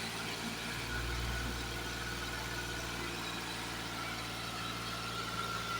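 Tractor diesel engine running steadily at idle, with a faint steady whine above the low hum.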